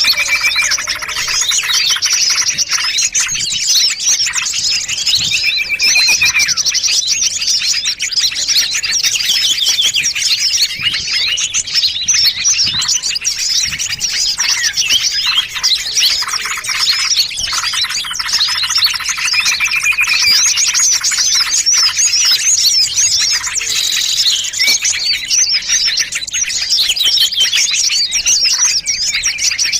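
A dense, layered chorus of many small songbirds chirping and trilling at once, mixed as a bird-lure (pikat) call track for luring small birds. Rapid high chirps and trills overlap without pause, with a few brief held whistled notes.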